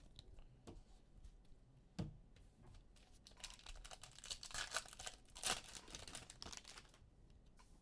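Trading cards and their plastic packaging being handled: a few light clicks, then a few seconds of crinkling and rustling.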